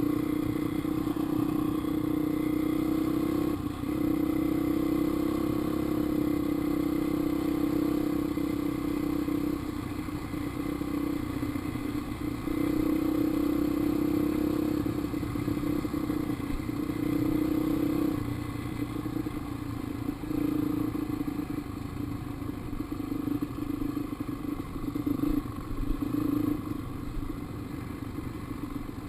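Dirt bike engine running as the bike is ridden along a trail, the throttle opening and easing off: strong stretches for the first nine seconds and again for several seconds around the middle, then lower and more broken near the end.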